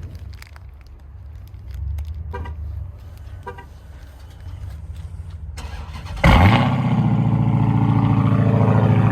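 Two short chirps over a low background rumble, then about six seconds in a Dodge Charger Hellcat's supercharged V8 fires with a loud flare that drops quickly and settles into a steady cold idle.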